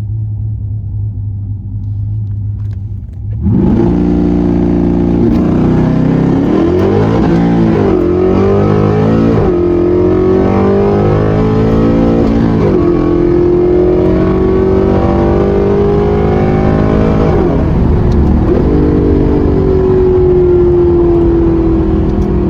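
A car's engine idles low, then about three and a half seconds in it goes to full throttle for a drag-strip launch. It pulls hard through the gears, with its pitch rising and then dropping at each upshift, about three times.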